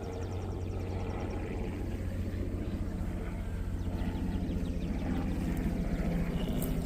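Honeybees buzzing around an open hive: a steady, low droning hum that swells slightly toward the end.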